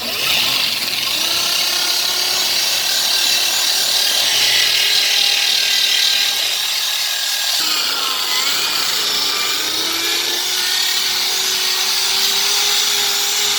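An electric rotary grinding tool runs steadily while grinding out and widening the bore of a moped carburettor: a loud hiss with a motor whine. The motor's pitch dips and rises again about eight seconds in as the tool bears on the metal.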